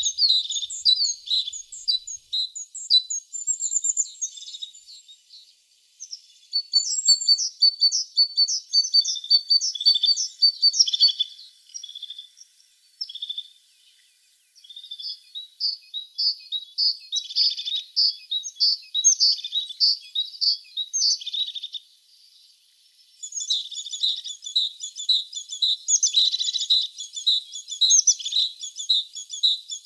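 Tit singing: runs of rapid high chirps and trills, broken by short pauses about six, fourteen and twenty-two seconds in.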